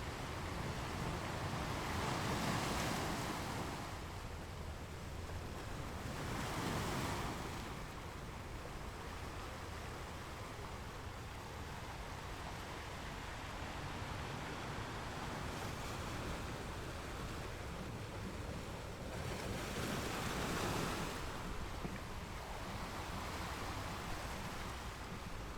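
Ocean waves breaking on rocks: a steady rumble of surf with three louder wave crashes that swell up and fade, about two seconds in, about seven seconds in, and near twenty seconds in.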